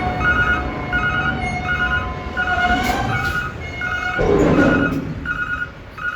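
Roll-off truck's reversing alarm beeping steadily, about three beeps every two seconds, over the rumble of its running engine. The rumble swells louder about four seconds in.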